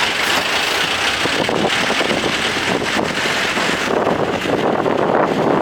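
Steady engine and road noise of a moving pickup jeep mixed with wind rushing over the microphone; the high hiss thins about four seconds in.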